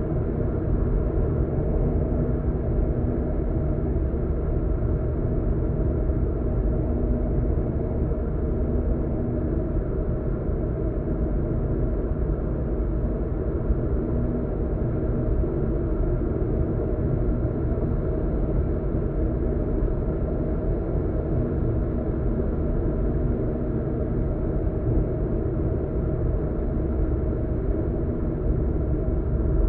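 A car's road and engine noise heard from inside the cabin while driving: a steady low rumble of tyres and engine with a faint hum, without change.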